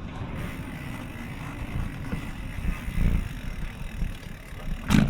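Steady wind and road rumble of a bicycle ride heard on the rider's camera, with a sharp clunk near the end.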